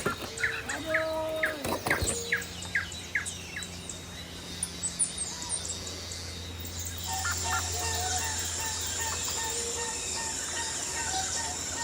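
Birds chirping: a quick run of short chirps in the first few seconds, then scattered calls. A steady high insect drone comes in about halfway, and a low steady hum runs underneath.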